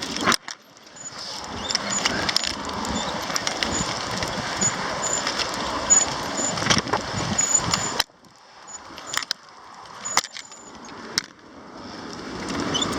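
Strong wind buffeting the microphone during a bicycle ride: a rushing, rumbling noise that drops off suddenly about eight seconds in, then builds again, with a few sharp clicks in the quieter stretch.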